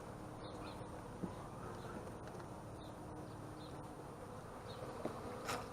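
Honeybees buzzing around an open hive: a steady hum of many bees, with a couple of short clicks about a second in and near the end.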